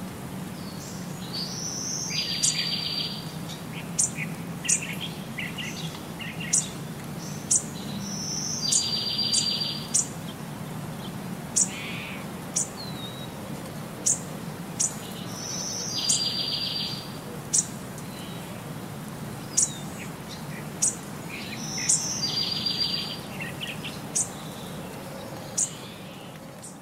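Bird calls: a short high note followed by a buzzy trill, repeated about every six seconds, with sharp high chirps in between, over a steady low hum.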